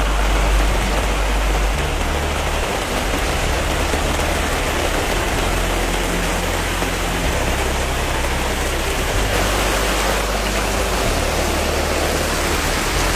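Heavy rainstorm downpour: a loud, steady hiss of torrential rain, with gusting wind buffeting the microphone in a low rumble.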